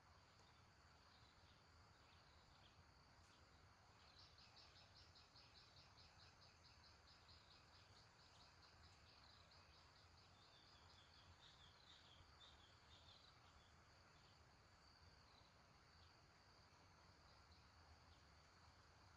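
Faint outdoor ambience: a steady high insect drone, with a rapid trill of high notes at about five a second starting about four seconds in, breaking into looser notes and fading about two-thirds of the way through.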